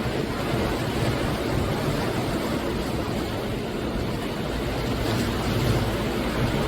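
Ocean waves breaking and washing on the shore in a steady rush, with wind buffeting the microphone.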